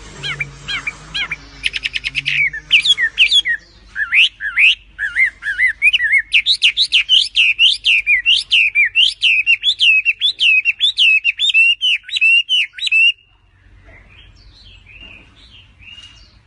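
A songbird singing a long, fast run of varied chirping notes that stops abruptly about thirteen seconds in, followed by a few faint calls.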